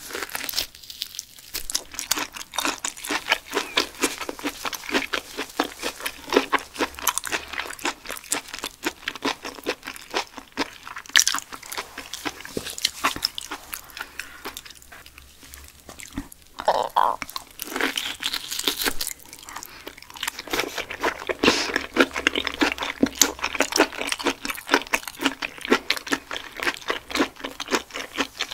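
Close-miked mouth eating raw grey mullet: wet chewing with many small crisp clicks. The chewing goes quiet for about two seconds around the middle, then starts again.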